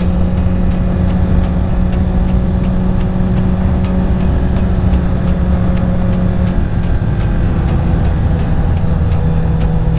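2021 Honda CBR1000RR's inline-four engine running steadily at cruising speed, with wind rumbling over the helmet-mounted microphone. The engine note drops slightly about seven seconds in.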